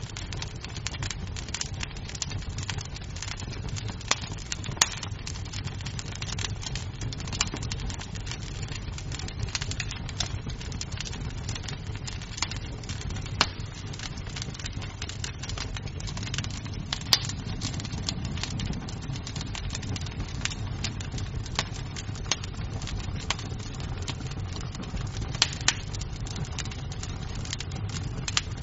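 Wood fire crackling in a fireplace: a steady low rumble of flames with frequent small snaps of burning wood and a few louder pops.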